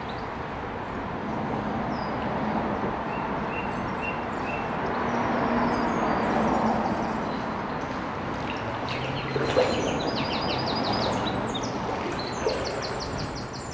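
Small songbirds calling, with short high notes and then quick repeated-note phrases in the later part, over a steady wash of outdoor noise. There are two brief sharp clicks in the second half.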